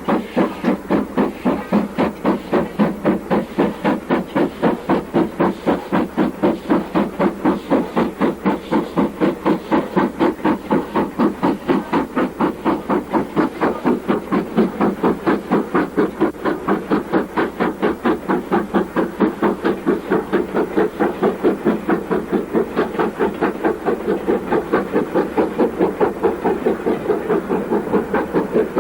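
LMS Stanier Class 5 (Black Five) 4-6-0 steam locomotive working hard up a rising gradient, its exhaust beating steadily at about three to four beats a second with a hiss of steam.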